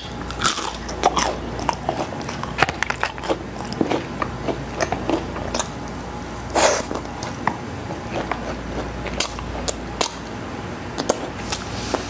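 Close-miked biting and chewing of crispy McDonald's chicken nuggets: irregular crunches and wet mouth clicks throughout, with one louder crunch about halfway through.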